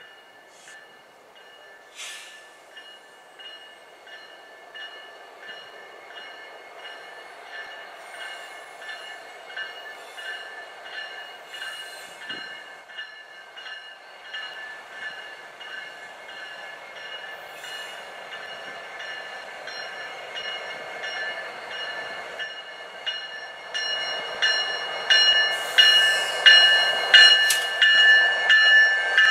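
A freight train with three diesel locomotives approaching. A bell rings steadily, about two strikes a second, and the diesels' rumble grows louder as the locomotives draw near and pass close in the last few seconds.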